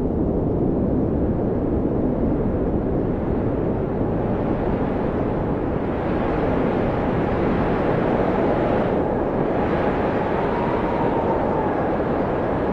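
Blizzard wind blowing hard and steadily, a dense rushing noise, with a faint howl that slowly rises and falls in pitch in the second half.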